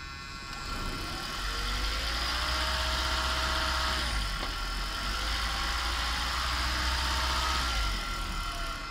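Toyota Prius 1.8-litre 2ZR-FXE four-cylinder petrol engine running in the car, a steady mechanical hum with a faint whine that rises in pitch twice. It grows louder over the first couple of seconds and eases off near the end.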